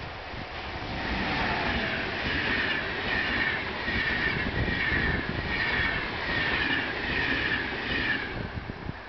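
Passenger train hauled by an electric locomotive passing close at speed. The locomotive goes by with a falling tone about a second in. The coaches then rush past with a regular beat of wheel sounds, about three every two seconds, and the sound fades near the end.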